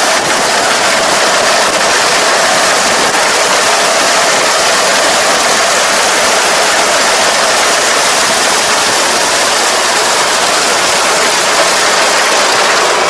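Iseki ER470 combine harvester running steadily while harvesting rice, a loud, even machine noise with a faint steady hum.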